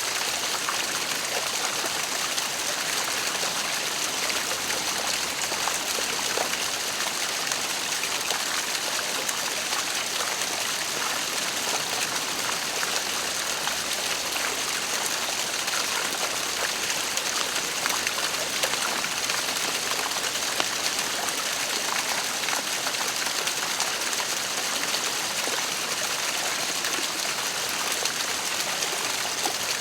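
Waterfall: steady rush of falling water with small splashes and trickles.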